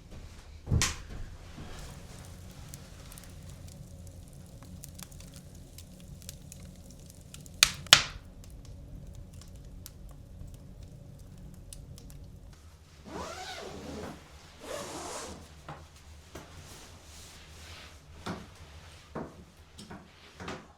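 Several sharp knocks, the loudest a pair close together about eight seconds in, among faint scattered crackles and a steady low hum that stops about twelve seconds in; a few seconds of noisy rustling follow.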